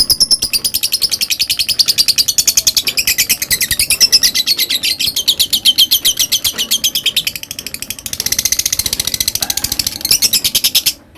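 Lovebird's ngekek call: a long, unbroken run of very rapid, high, shrill chirps, about ten a second. It falters briefly about three-quarters through, resumes, then cuts off abruptly just before the end.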